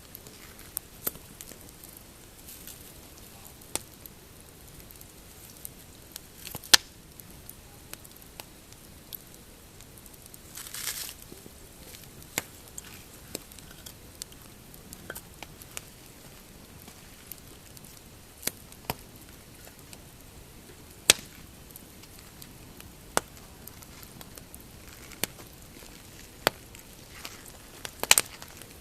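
Pine-wood campfire crackling, with irregular sharp pops over a steady low background; the loudest pops come about 7 and 21 seconds in and a cluster comes near the end. A brief hiss comes about 11 seconds in.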